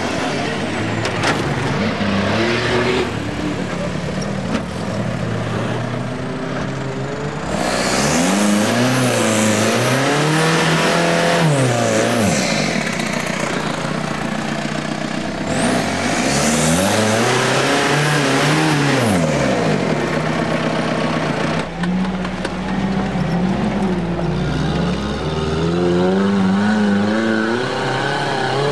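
Off-road trial 4x4 engines revving hard, the pitch rising and falling over a second or two at a time. The sound changes abruptly about a quarter, a half and three quarters of the way through, as one vehicle gives way to another.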